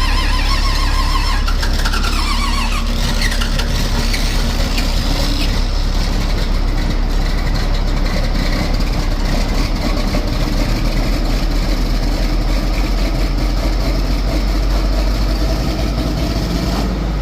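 John Deere 4430 tractor's turbocharged six-cylinder diesel being cold-started at about 20°F with no ether and no block heater, catching and settling into steady running within the first few seconds. The start is loud, like a freight train.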